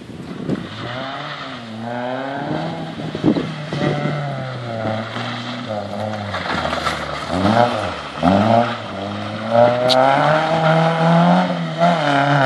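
Rally car engine revving hard on a dirt rallycross stage, its pitch climbing and dropping again several times as the throttle is worked, getting louder toward the end.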